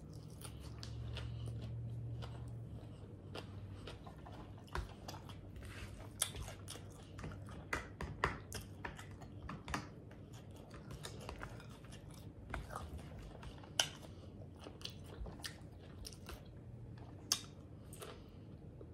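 A person chewing a mouthful of Caesar salad with salmon close to the microphone: irregular crisp crunches of lettuce and wet mouth smacks. A couple of sharper clicks stand out in the second half.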